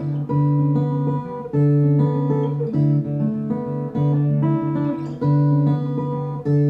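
Acoustic guitar playing an instrumental passage of chords, the notes ringing on, with a low bass note that comes back every second or so.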